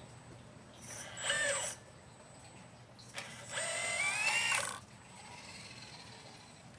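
Motors of a 1/12 scale Liebherr 954 RC excavator whining in two bursts, a short one about a second in and a longer one about three seconds in that rises in pitch.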